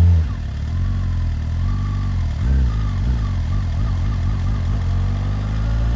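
Vehicle engine running while driving, a steady low hum whose pitch rises briefly about two and a half seconds in.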